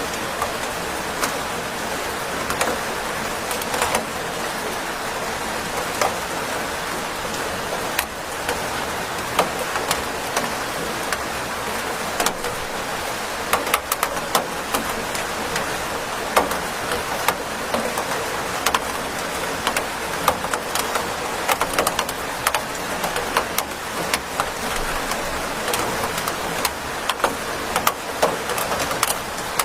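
Steady rain falling, an even hiss with many sharp drop ticks scattered through it as drops strike a surface.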